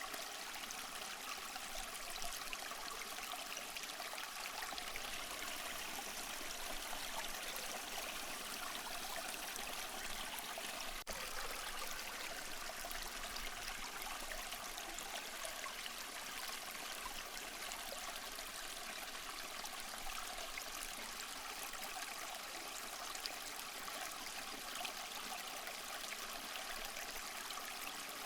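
Steady rush and trickle of running water, with no separate wave surges standing out. A momentary dropout breaks it about eleven seconds in.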